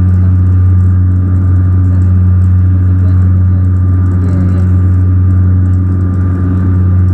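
Saab turboprop airliner in flight: its propellers and engines make a steady, loud low drone with a thin high whine above it, unchanging throughout.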